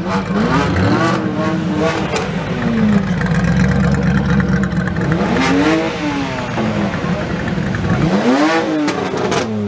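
Car engines revved up and back down several times, each rev a rising-then-falling howl, over a steady idle.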